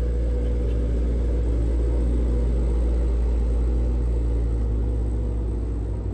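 Heavy truck's diesel engine running with a deep, steady rumble, as a loaded truck labours on a steep incline.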